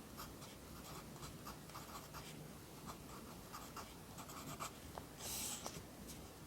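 Pencil writing Korean characters on paper: a quick run of short scratchy strokes, with one longer, louder stroke about five seconds in.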